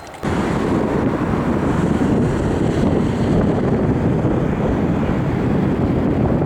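Jet airliner's engines: a loud, steady rush of noise that starts suddenly a fraction of a second in.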